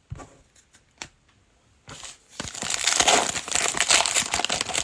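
Plastic trading-card pack wrapper being crinkled and torn open, a loud dense crackling that starts about two and a half seconds in after a few light handling clicks.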